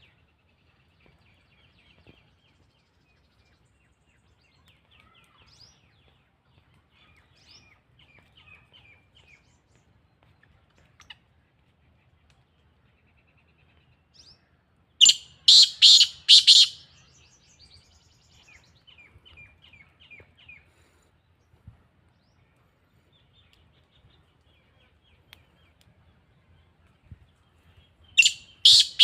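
Black francolin giving its loud, harsh call of four or five quick strokes about halfway through, and starting it again near the end. Between the calls there is faint, high twittering.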